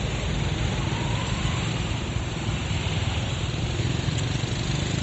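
Steady street noise of passing traffic, with wind rumbling on the microphone.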